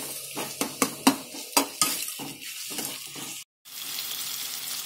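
Tomatoes, onions and green chillies sizzling in oil in a stainless-steel kadai, stirred with a spoon that scrapes and clicks against the pan about eight times in the first two seconds. The sound cuts out for a moment about three and a half seconds in, then steady sizzling resumes.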